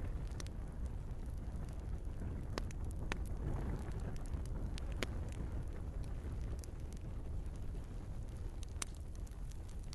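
Wood fire burning in a fireplace: a steady low rumble of flames with scattered sharp crackles and pops from the logs, a few of them louder.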